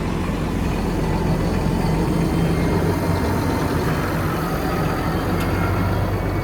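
Tractor engine running steadily with an even, low drone.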